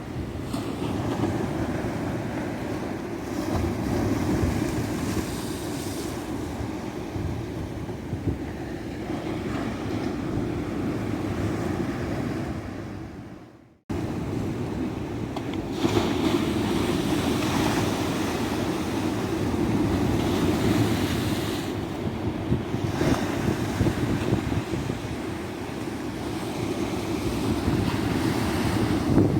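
Ocean surf washing and breaking on a beach, a steady rushing wash that swells and ebbs. A little before halfway it fades away to silence and then cuts straight back in, like an edit splice in the recording.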